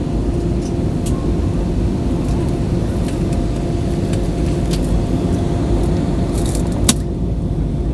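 Jet airliner cabin noise in flight: a steady low roar of engines and rushing air, with a faint steady hum over it and a few small clicks, one sharper near the end.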